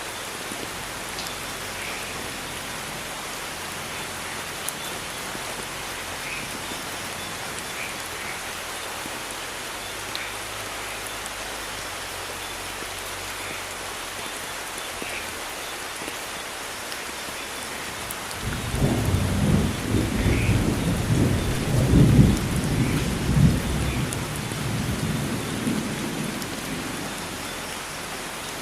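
Steady rain falling in a rainforest, with scattered individual drips. About two-thirds of the way in, a deep roll of thunder rumbles up, peaks and fades over roughly eight seconds.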